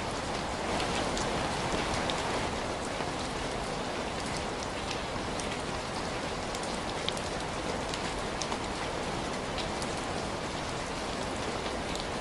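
Steady rain falling, with scattered sharp ticks of single drops heard through it.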